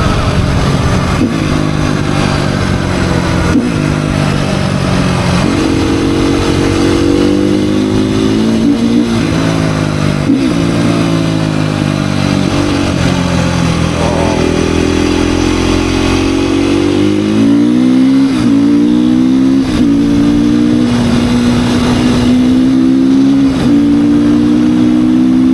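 Beta 390 dirt bike's four-stroke single-cylinder engine ridden hard off-road, revving up through the gears: the pitch climbs, breaks off at each shift and climbs again, many times over.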